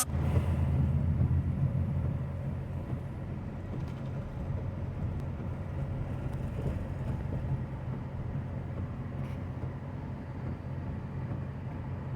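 Steady low rumble of a vehicle running, loudest in the first two seconds, with a few faint clicks.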